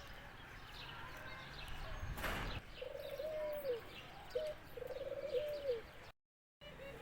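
Dove cooing: low, steady coos in two phrases, each falling away at the end, with faint higher bird chirps behind. A short rushing noise comes just before the coos, and the sound cuts out briefly near the end.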